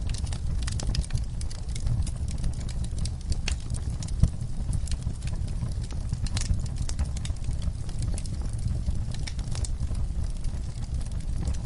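Wood fire burning in a fireplace: a steady low rumble of the flames with irregular crackles and sharp pops from the burning logs.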